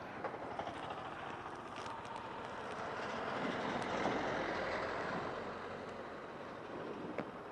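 A road vehicle passing by, its noise swelling to a peak about four seconds in and then fading away.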